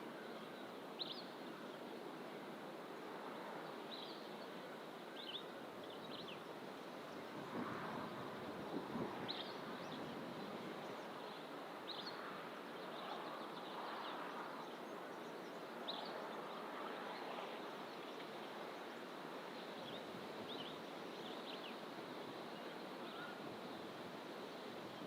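Birds giving short, high chirps every second or two over a steady wash of distant ocean surf and wind, which swells slightly a few times.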